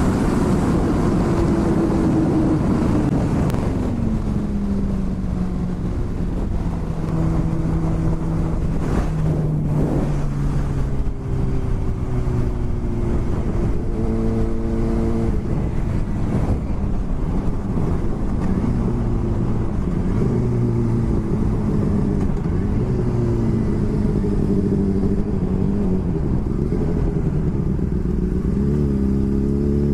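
Motorcycle engine running at road speed under a steady rush of wind noise. Its pitch falls over the first several seconds, then holds and shifts up and down now and then.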